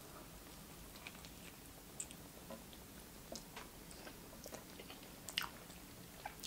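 Faint mouth sounds of a person biting into and chewing a large hamburger: a handful of soft clicks and smacks scattered through.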